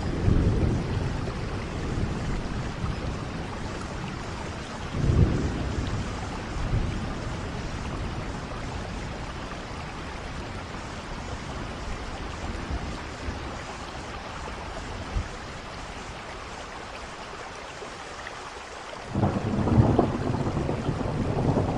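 Steady rain with rolls of thunder: a rumble at the start, another about five seconds in, and a louder one near the end.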